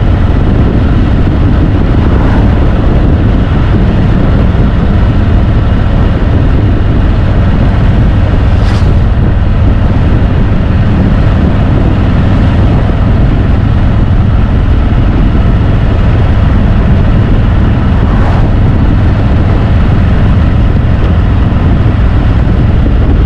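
Harley-Davidson Road Glide's V-twin engine running steadily under way at an even road speed.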